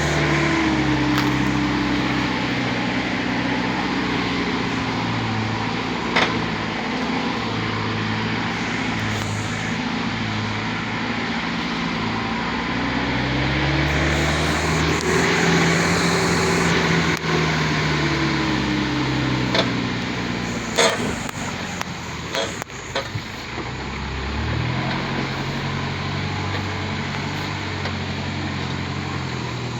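Truck engine labouring offroad on a rough road, revving up in pitch midway and then easing off. A few sharp knocks and rattles come as the engine drops back, before it picks up again near the end.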